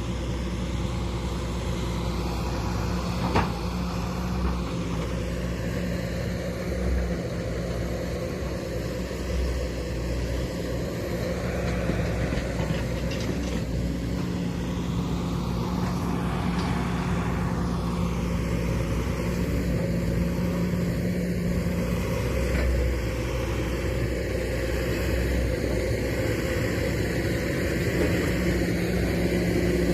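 Hydraulic excavator's diesel engine running steadily as the machine works, with a few sharp clanks, one about three seconds in. It grows slightly louder toward the end.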